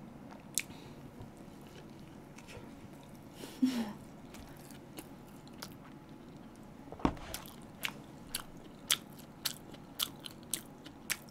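Close-up chewing and biting of a spicy pork-cutlet toast sandwich: soft crunches and wet mouth clicks. The clicks come about twice a second near the end, with a single louder knock about seven seconds in.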